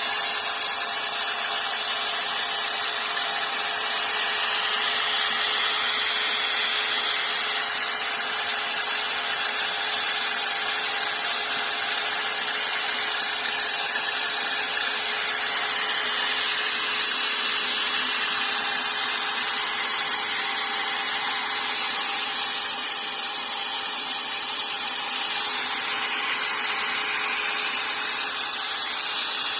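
Power drill running steadily, driving a Pacific Hydrostar drill-powered water pump that pulls up creek water.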